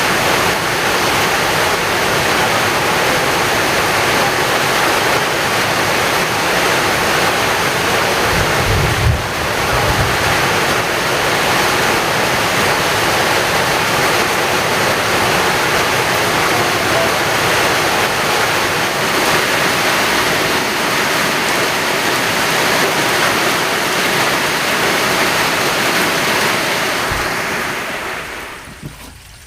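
Heavy rain pouring down steadily, with a brief low rumble about nine seconds in; the noise dies away near the end.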